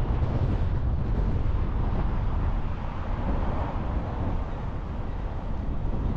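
A car being driven: steady road and wind noise with a heavy low rumble, easing slightly partway through.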